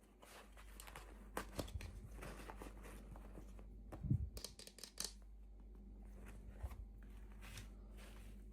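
Faint unboxing handling sounds: small plastic packaging and toy pieces rustling, crinkling and clicking, with a soft thump about four seconds in and a quick run of sharp ticks just after it.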